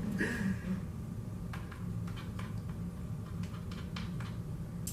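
A few faint, scattered light clicks over a steady low hum.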